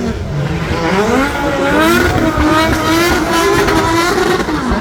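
Drift car engines revving hard, their pitch rising and falling again and again as several cars overlap.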